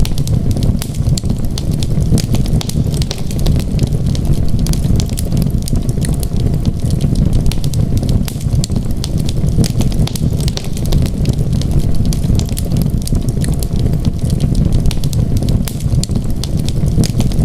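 Wood fire crackling with frequent small, irregular pops, over a steady low rumble of storm wind.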